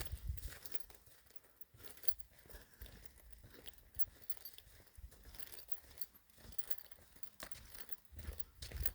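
Faint scattered clicks and ticks over a quiet background, with no steady sound.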